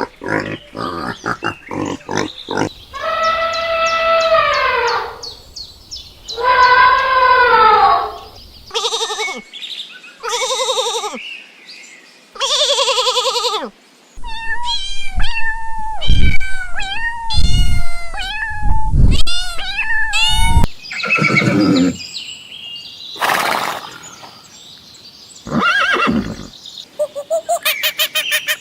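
A run of different animals' calls, one short clip after another, with abrupt cuts between them: long pitched calls, quick repeated calls, and a stretch of gliding, arching calls in the middle.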